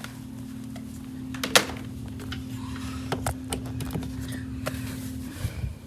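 Sharp clicks and knocks of a Hoover Dial-a-Matic upright vacuum cleaner being handled before it is switched on, the loudest about a second and a half in, over a steady low hum.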